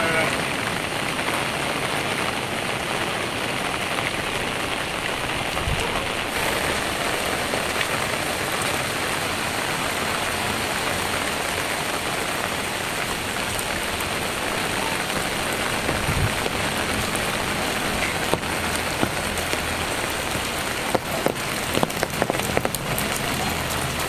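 Heavy rain falling steadily, a dense even hiss, with a run of sharper taps near the end.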